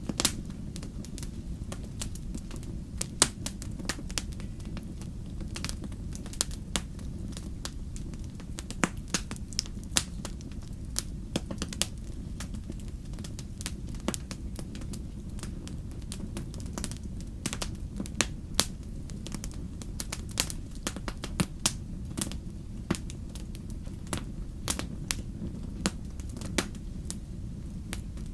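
Wood fire crackling: irregular sharp pops and snaps, several a second at times, over a steady low rumble of burning.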